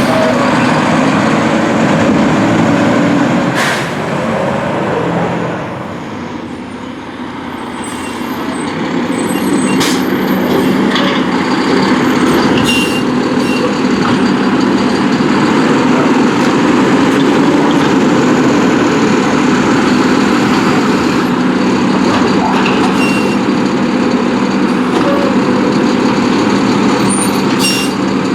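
Mack LR refuse truck's diesel engine running hard, easing off about five seconds in, then building back up and holding steady at high revs, with a few short sharp clicks over it.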